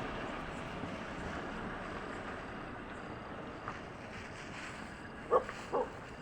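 Steady rushing background noise slowly fading, then a dog barks twice in quick succession near the end, the two short barks about half a second apart.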